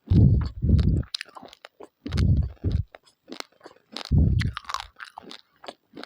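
Raw, uncooked rice grains being chewed close to the microphone: sharp crackling crunches, broken by three loud, deep chewing bursts about two seconds apart.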